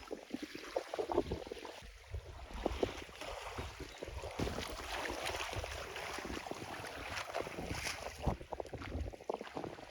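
Water splashing and sloshing in irregular bursts, with wind on the microphone.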